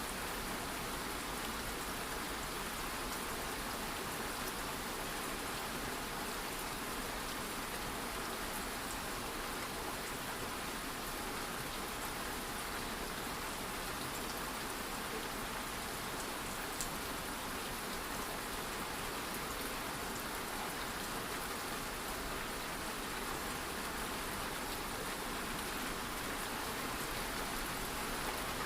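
Light rain falling steadily, an even patter of drops on a surface.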